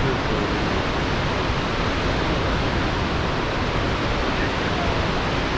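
Rushing water from a waterfall, a steady, even rush with no breaks.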